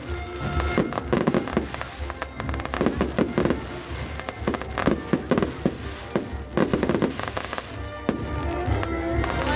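Fireworks going off in a rapid string of sharp cracks and bangs, with music playing underneath. The bangs thin out near the end as the music comes forward.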